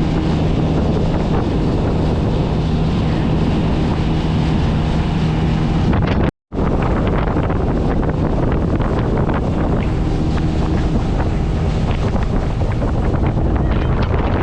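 A small fishing boat's outboard motor running at a steady speed under heavy wind buffeting on the microphone, with water rushing past the hull. The sound breaks off for an instant about six seconds in.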